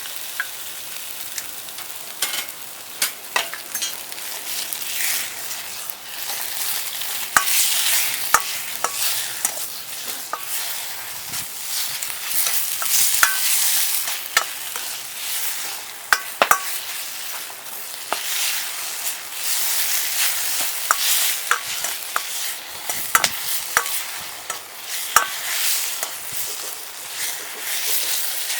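Stir-frying in a Chinese wok: food sizzling steadily while a spatula clacks and scrapes against the metal pan at irregular intervals.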